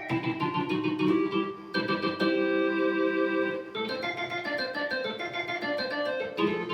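Yamaha YC-20 combo organ playing sustained chords and a melody line, with the notes changing every second or so.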